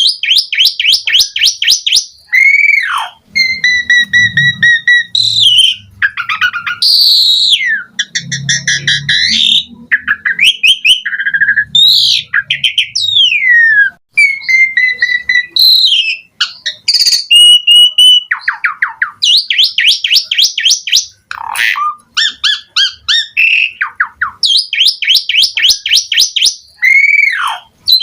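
Javan pied starling singing a long, varied song: fast runs of repeated notes, clear whistles and swooping rising and falling glides, with only brief pauses. The song is packed with mixed-in phrases, the 'full isian' style of a starling in top singing form.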